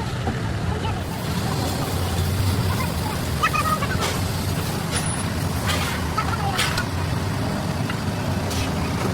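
Mercedes-Benz OM501 V8 diesel engine running steadily with a deep rumble, with a few short air hisses in the middle.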